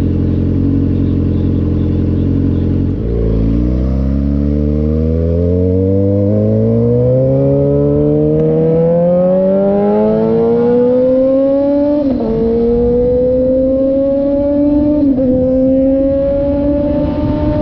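A 2006 Suzuki GSX-R600's inline-four with a Coffman's aftermarket exhaust. It holds a steady note for about three seconds, then pulls hard, with the pitch climbing steadily. It upshifts twice near the end, each shift a short dip before the note climbs again.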